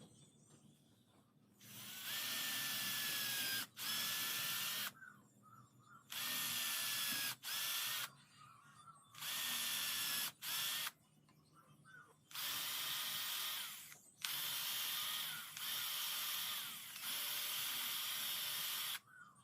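An electric power tool run in about nine short bursts of one to two seconds each, over a harsh high hiss. Its motor whine climbs as each burst starts and drops as it stops, as it works steel for a khukuri blade.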